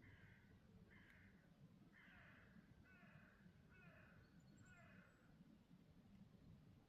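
A bird calling faintly: six short, harsh calls, about one a second, that stop after about five seconds.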